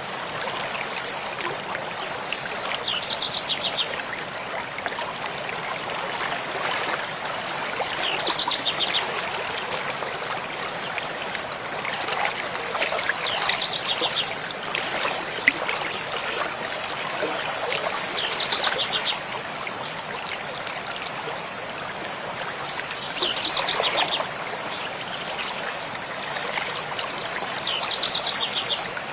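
Mountain stream flowing steadily over rocks, with a songbird repeating a short, rapid high-pitched song about every five seconds.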